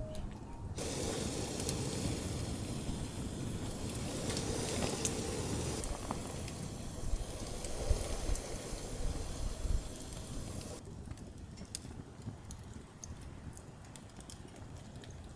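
Campfire burning: a steady hiss with scattered sharp crackles and pops. About eleven seconds in the hiss drops away, leaving quieter, sparser crackling.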